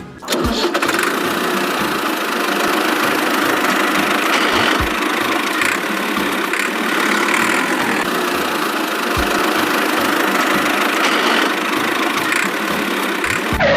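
Mini tractor's motor running steadily at a constant pitch and level.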